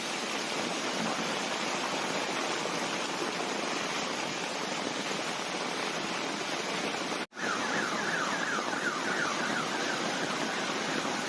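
Steady rush of heavy rain and flowing floodwater. After a short break about seven seconds in, a rapidly repeating falling tone sounds over it for a couple of seconds.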